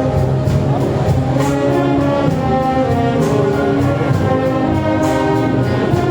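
Filipino brass band playing: brass and reeds sound sustained chords over a regular percussion beat.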